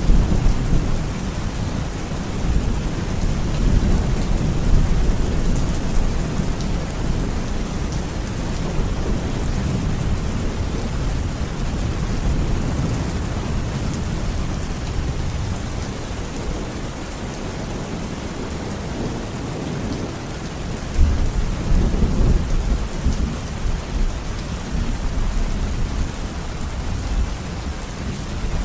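Steady rain with thunder rumbling low underneath, swelling and fading, with a stronger rumble about three quarters of the way through.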